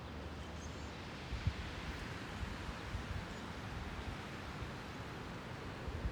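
Wind blowing outdoors: a steady hiss with low rumbling buffeting on the microphone, and a small thump about a second and a half in.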